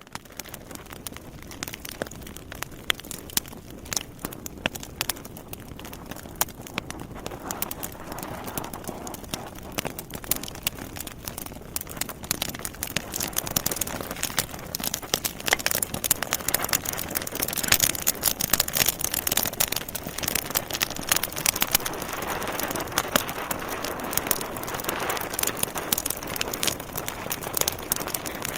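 Wood fire crackling in a fireplace: frequent sharp pops and snaps of burning logs over a steady hiss of flame, growing busier and louder through the first half.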